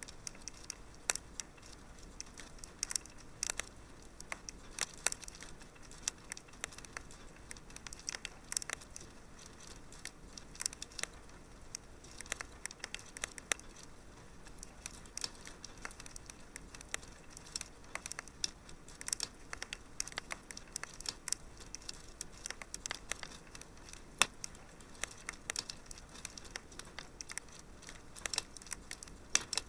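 Wood fire crackling in a fireplace: irregular sharp pops and snaps, several a second, some louder than others, over a faint steady hiss.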